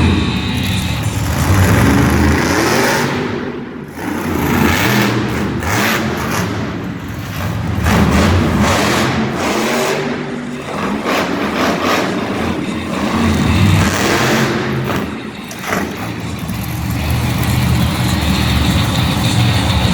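Monster truck engine revving loud and hard, the engine note swelling and falling over and over, with short drops in throttle about four and fifteen seconds in.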